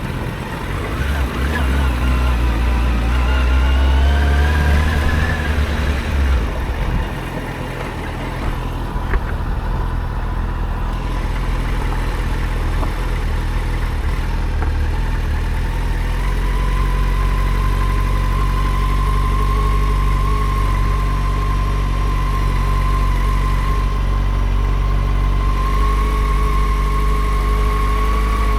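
Yamaha FZ6 Fazer's inline-four motorcycle engine under way: it climbs in pitch for the first few seconds, eases off around six seconds in, then holds a steady note at constant speed.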